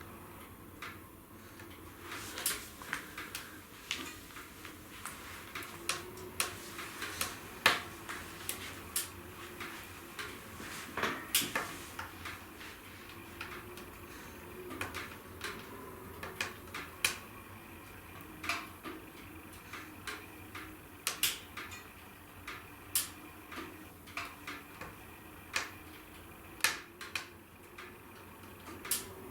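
Wood fire in a fireplace crackling, with irregular sharp pops and snaps of burning logs over a quiet steady background.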